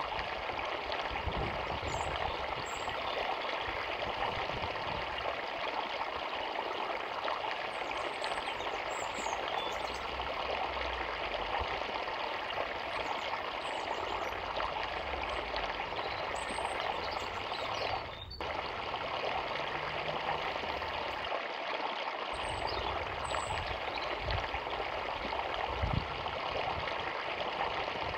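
Small forest river flowing steadily, an even rushing and trickling of water, with faint high bird chirps now and then.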